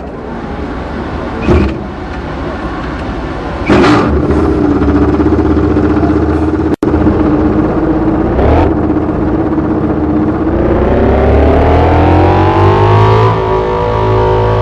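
Yamaha MotoGP racing bike's inline-four engine running loud, with sharp bursts about a second and a half, four and eight and a half seconds in. It then climbs steadily in pitch for about three seconds and holds a high steady note near the end.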